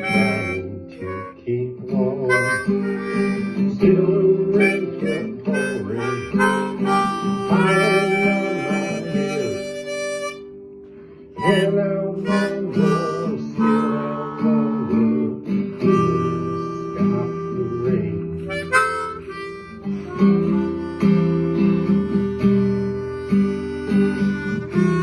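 Harmonica playing a melody over strummed acoustic guitar, an instrumental break between sung verses. Both drop away briefly about ten seconds in, then pick up again.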